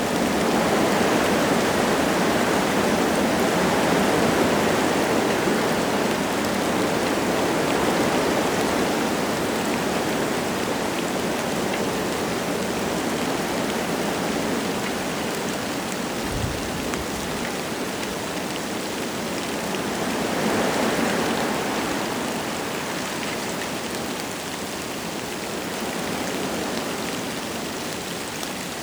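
Wind gusting through forest trees with light rain falling: a steady rushing hiss that swells over the first several seconds and again about 20 seconds in.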